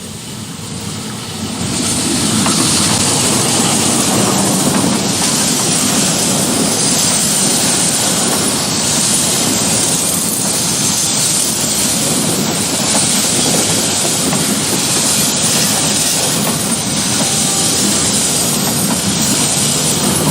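A train passing close by at speed: a loud, steady rush of wheels on rail that builds up about two seconds in and holds.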